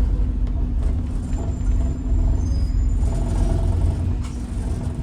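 Scania N94UD Omnidekka double-decker bus heard from inside the passenger cabin while under way: a steady low engine and road rumble with a constant hum. A short click comes about four seconds in.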